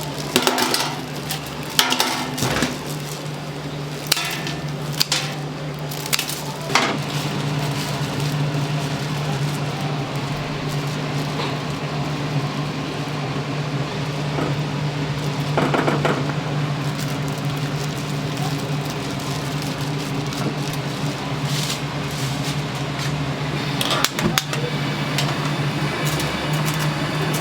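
Kitchen work: knocks and clatter of pans and utensils, several close together near the start and a few more later, over a steady low machine hum.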